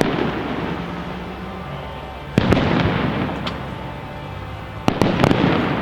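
Aerial fireworks shells bursting: one heavy bang about two and a half seconds in and a quick cluster of bangs near the end, each followed by a long echoing rumble.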